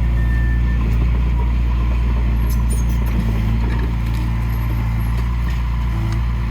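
Heavy diesel engine of earthmoving machinery running steadily, a deep even drone with a few faint light clicks over it.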